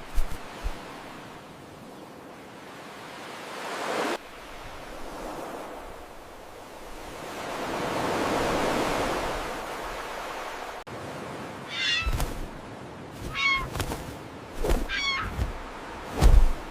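Rushing whooshes of noise swell and fade, then a series of short, high, wavering bird cries with low thuds between them.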